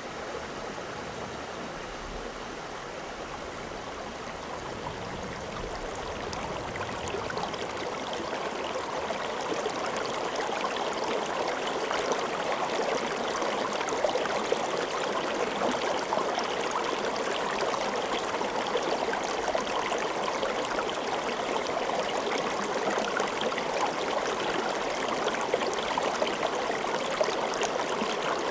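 Water of a stream flowing and splashing, a steady rushing babble that grows louder over the first ten seconds or so and then holds.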